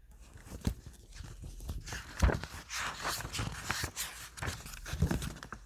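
Irregular close-up rustling and clicking of something being handled, with a sharper click about two seconds in.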